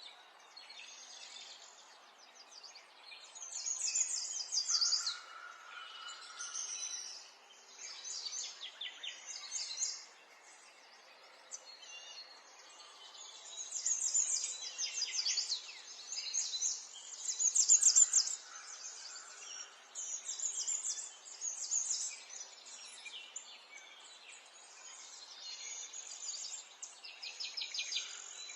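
Small songbirds chirping and singing: quick repeated trills, each lasting a second or two, coming in bouts every few seconds over a faint background hiss.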